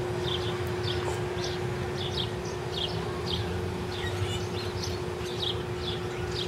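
A bird repeating a short, high chirp about twice a second, over a steady low hum.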